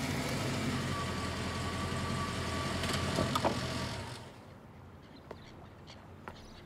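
A car engine running steadily, then cutting off about four seconds in, leaving a much quieter background with a few small clicks.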